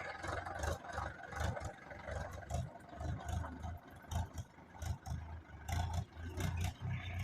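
Mahindra tractor's diesel engine running, a low uneven throb with scattered rattles.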